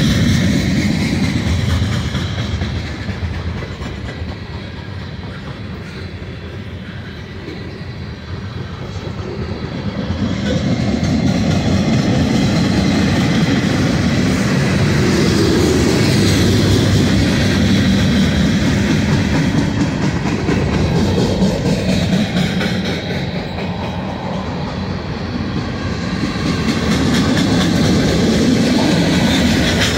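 Mixed freight train cars rolling past: steel wheels rumbling on the rail with a clickety-clack over the joints, the loudness easing off twice for a few seconds and building again.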